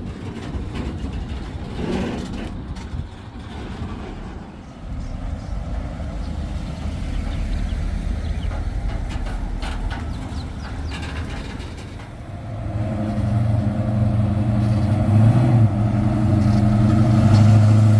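Car engine running with a deep, steady drone that comes in about two-thirds of the way through and grows louder, over a low rumble of other vehicles.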